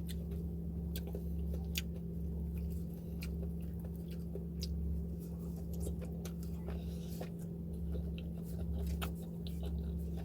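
A person chewing and biting food close to the microphone: irregular wet clicks and small crunches, over a steady low hum.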